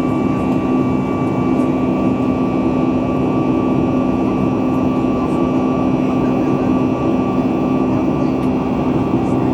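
Steady cabin drone of a Boeing 737 MAX 8 in flight: its CFM LEAP-1B engines hum with a few constant tones over a broad rush of airflow.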